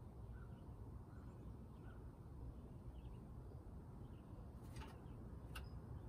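Quiet outdoor background with a low rumble and faint, short bird chirps repeating. Two or three sharp taps come near the end, while a pileated woodpecker is at a wooden suet feeder.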